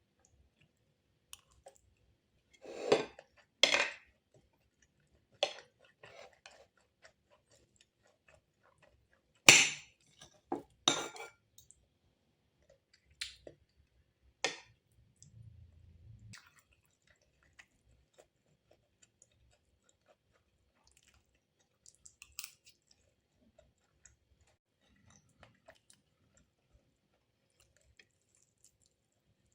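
Scattered clinks and knocks of dishes and cutlery, a dozen or so separate short sounds with quiet between them. The loudest comes about ten seconds in, and after about fifteen seconds only faint, sparse ticks remain.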